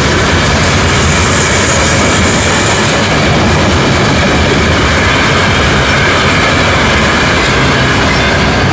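Freight train of open-top hopper cars rolling past close by: a loud, steady noise of steel wheels running on the rails. The last car clears near the end.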